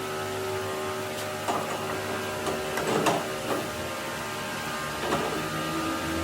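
Workshop machine running with a steady hum and whir, with a few short knocks of metal on metal, the loudest about halfway through.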